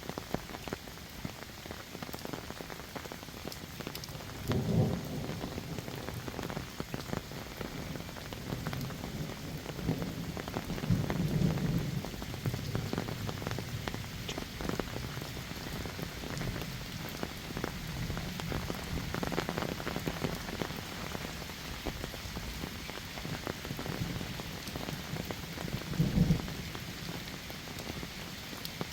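Heavy rain falling steadily, a dense patter of drops, with a few short low rumbles or thumps (about five seconds in, around eleven seconds, and near the end).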